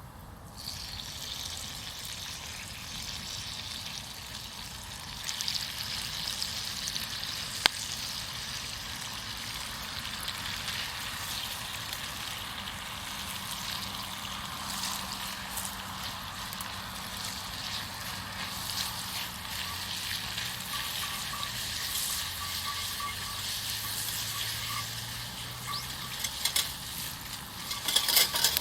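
Food sizzling steadily in a pan over a campfire, with a sharp click about eight seconds in and a few clicks near the end.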